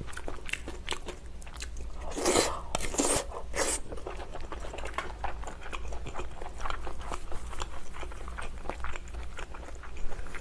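Close-miked chewing and biting of scallop meat, with many small mouth clicks; a few louder noisy bursts come between about two and four seconds in.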